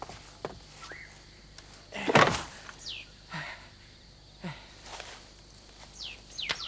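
Birds calling with short chirps that sweep down in pitch, several times. About two seconds in there is one brief, loud noise that spreads across the whole range of pitch, and a few faint clicks occur between the calls.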